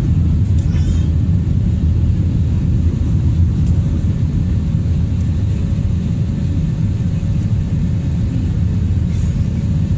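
Steady low rumble of an Airbus A320's jet engines and airframe heard from inside the passenger cabin, with a faint steady hum and a couple of light clicks.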